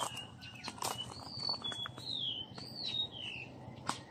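Bird song: a run of short, high whistled notes, several rising then falling or sliding down in pitch, with a few sharp clicks among them.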